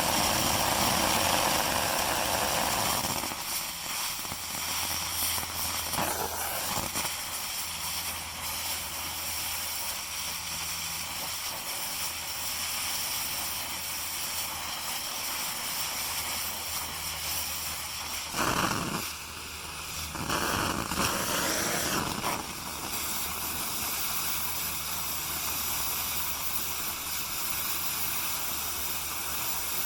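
Gas cutting torch hissing steadily while it works on excavator bucket teeth, with an engine idling low underneath. The hiss is loudest for the first few seconds and surges twice about two-thirds of the way through.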